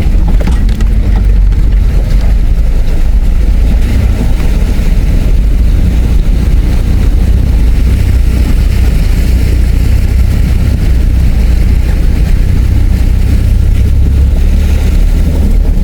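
Four-wheel drive's engine and drivetrain running with a loud, steady low rumble while driving through a river crossing in four-wheel-drive high range. A rushing hiss builds in the second half.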